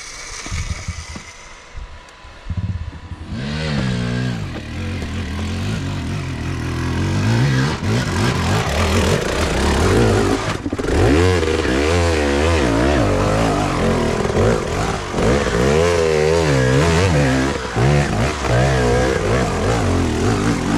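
Dirt bike engine revving up and down in uneven surges, starting about three seconds in and getting louder.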